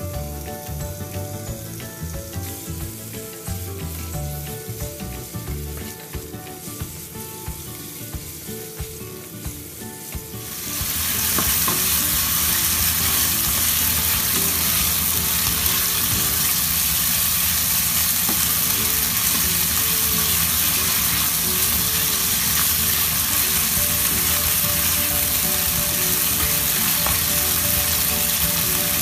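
Background music, then about a third of the way in a loud frying sizzle starts suddenly: a beef and spring onion stir-fry cooking in hot oil in a pan, sizzling steadily under the music.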